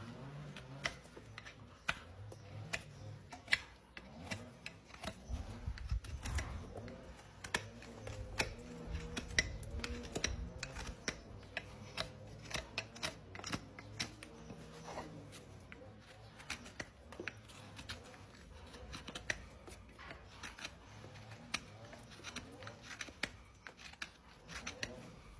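Hand tools scraping and picking at a horse's hoof as packed dirt is cleaned out, in many short, irregular clicks and scrapes.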